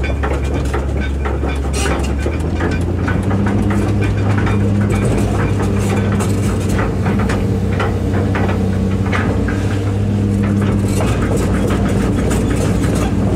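Hitachi EX200-5 excavator's diesel engine running, stepping up to a higher speed about two and a half seconds in and holding there, with frequent metallic clanks and knocks over it.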